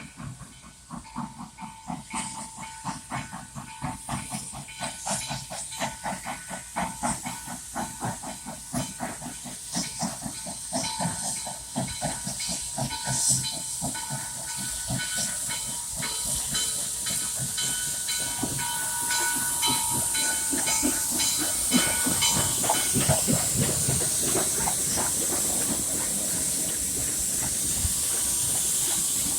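Steam locomotive 1309, a 2-6-6-2 articulated engine, working with its exhaust chuffing in a steady beat that quickens and grows louder, merging after about twenty seconds into a loud steady hiss of steam.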